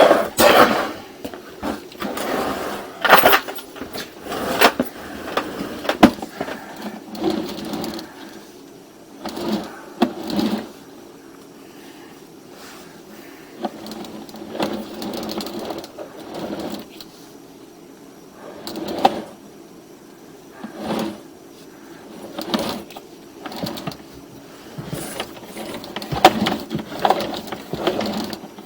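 Sewer inspection camera and its push cable being fed down a sewer main: irregular knocks, clatters and rattles as the camera head and cable bump through the pipe, over a steady low hum.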